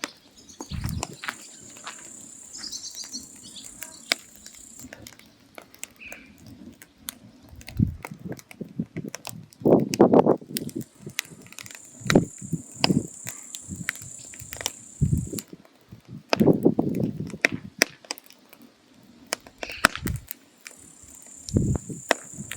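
Firewood burning in a mangal, crackling and popping in sharp irregular snaps, with a few louder rushing spells. A high steady insect-like buzz starts and stops three times.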